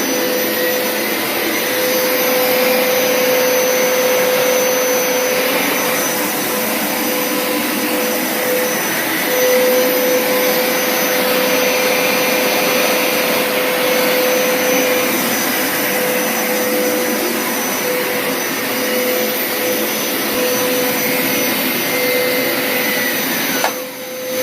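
Hoover Power Scrub Deluxe FH50150 carpet washer's suction motor running steadily with a whine, on a drying pass that pulls excess water out of the carpet with no solution sprayed. At the very end the motor winds down and its pitch falls.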